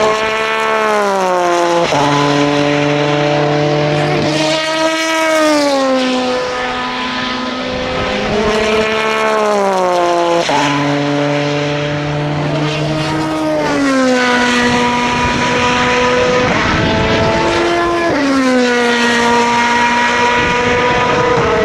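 Racing cars' engines passing one after another at speed, each engine note gliding down in pitch and jumping back up in steps between gear changes.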